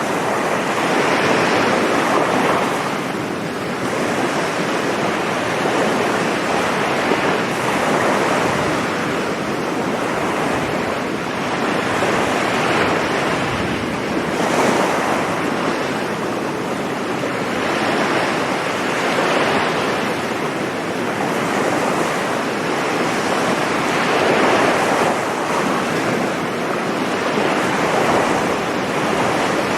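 Sea waves breaking and washing on a sandy beach, a steady surf that swells and eases every few seconds.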